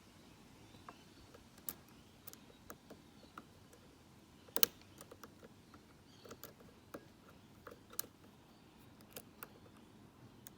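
Faint, irregular small metallic clicks and ticks of a lock pick working the pin stack of a padlock held under a tension wrench, with one sharper click about four and a half seconds in.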